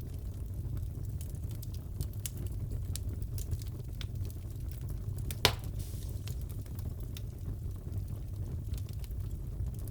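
Wood fire crackling in a fireplace: a steady low rumble with scattered small crackles and one loud pop about halfway through.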